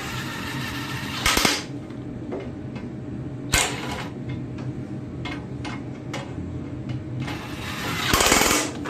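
Hand tools working bolts on a garden tractor's sheet-metal shroud: scattered clicks and a few louder metal clanks, the longest near the end, over a steady low hum.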